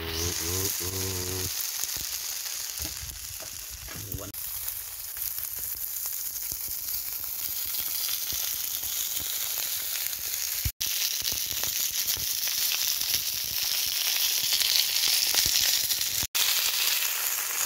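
Minted lamb chops frying in a hot pan: a steady, dense sizzle of spitting fat, which cuts out for an instant twice, past the middle and near the end.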